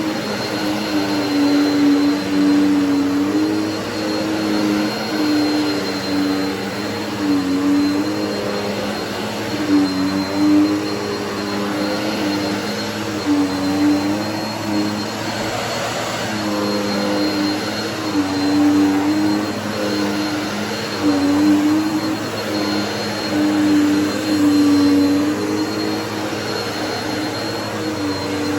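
Bissell vacuum cleaner running continuously, its motor hum with a thin high whine above it. The pitch dips and recovers every second or two as the load changes while it is pushed over the floor.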